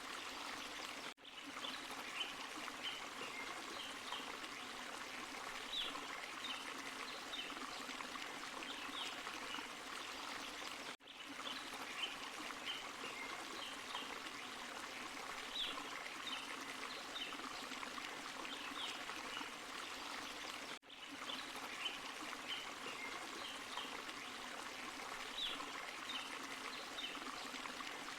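Forest stream and small waterfall running steadily, with short high sounds scattered over the rush of water. The sound cuts out for an instant three times, about ten seconds apart.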